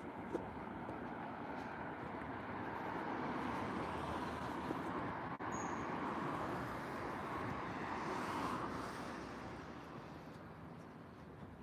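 Airplane passing overhead: a broad rushing engine noise that builds, peaks about eight or nine seconds in, then fades away.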